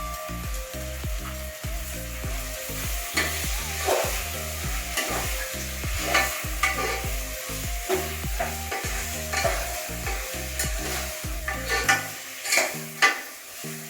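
Spatula stirring and scraping a sizzling pan of vegetables frying in spiced masala, with irregular sharp scrapes and clinks against the pan. A background music beat runs underneath and stops about two seconds before the end.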